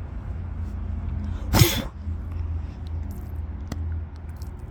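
A single short, loud sneeze about a second and a half in, over a steady low rumble of wind on the phone's microphone, with a few faint clicks afterwards.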